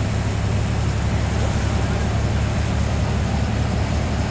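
Bus engine running with a steady low drone and road noise, heard from inside the driver's cabin.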